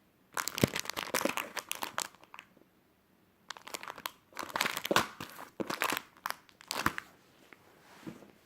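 Plastic packaging crinkling and crackling as it is handled, in two spells: one from about half a second in to about two seconds, another from about three and a half seconds to about seven.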